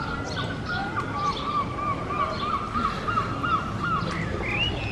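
Seagull calling: a quick run of about a dozen short, repeated calls, then a higher rising call near the end, over steady outdoor background noise.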